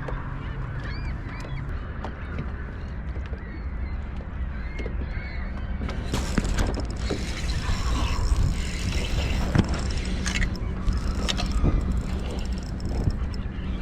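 Geese honking, busiest from about six seconds in, over a steady low hum, with small bird chirps in the first few seconds.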